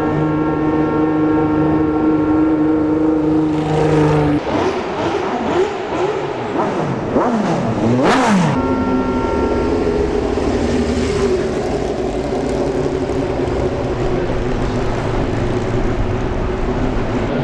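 Historic Formula One racing cars on track: an engine note holds steady at first, then from about four seconds in several cars sweep past with the pitch rising and falling, the loudest passing close about eight seconds in, before a steady engine note returns.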